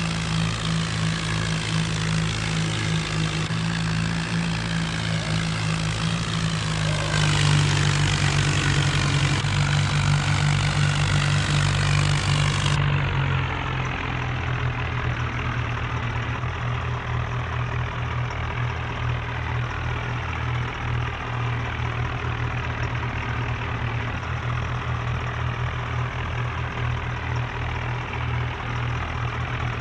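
A modified John Deere tractor's diesel engine running hard. It gets louder and higher for a few seconds, then drops a little before halfway to a lower, steadier running note.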